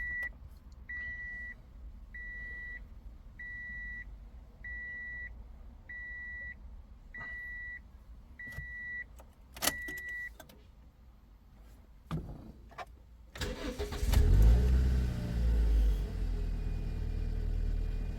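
Car warning beeper sounding about once a second, around ten beeps, with a few clicks. Then, about 13 seconds in, the engine of a Toyota with an MMT semi-automatic gearbox is cranked briefly, starts and settles into idle.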